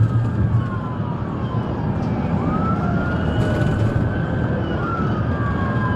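Police siren wailing, its pitch sliding slowly down, jumping back up about two seconds in and falling again, over a steady low rumble of vehicle engine and road noise.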